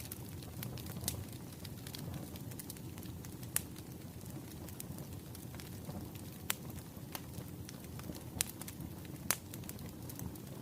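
Burning firewood logs crackling, with a steady low rumble of the flames under scattered sharp pops and snaps, the loudest near the middle and toward the end.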